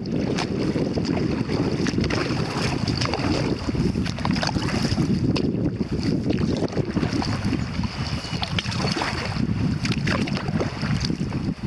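Wind buffeting the microphone in a steady low rumble, with small splashes and drips from kayak paddles dipping in the river.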